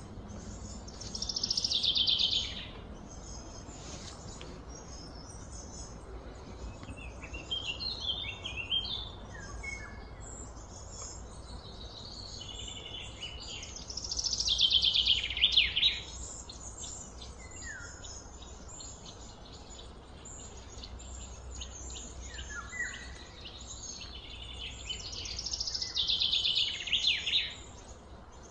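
Birds chirping and calling, with three louder, rapidly pulsed high calls about two seconds each, roughly twelve seconds apart, over a low steady hum.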